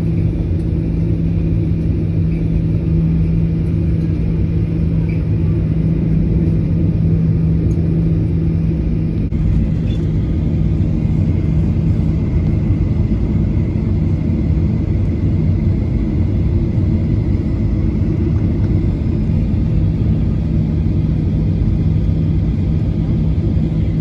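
Jet airliner cabin noise: a steady, loud rumble of engines and airflow with a low hum running under it.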